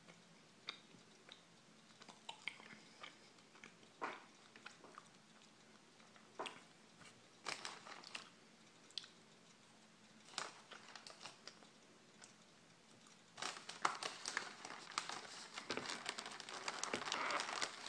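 Close-up mouth chewing a bite of s'mores chocolate chip cookie, with scattered small crunches that grow denser and louder in the last few seconds.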